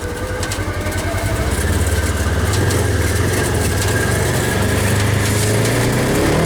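Polaris RZR side-by-side's engine running as it drives along, building over the first couple of seconds and then holding steady.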